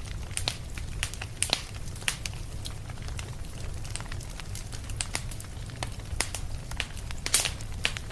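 Wood fire in a fireplace crackling, with irregular sharp pops over a steady low rumble; the loudest pop comes near the end.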